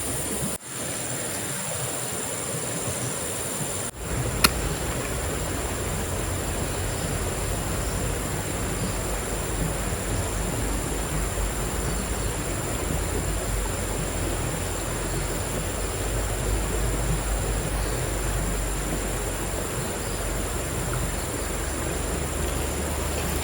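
Steady rushing of water in a forest camp, with a constant high-pitched drone layered on top. The sound drops out briefly about half a second in and again at four seconds, and there is a single sharp click just after.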